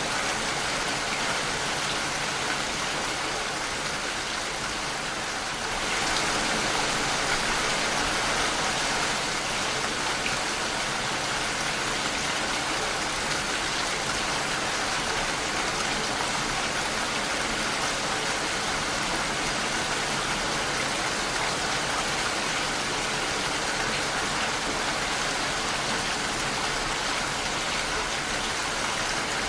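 Steady rain falling against a window pane, an even hiss that gets a little louder about six seconds in.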